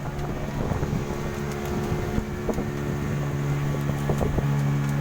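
A small boat's motor running, its tone unsteady and wavering for a few seconds before settling back to a steady hum near the end, with a few light knocks.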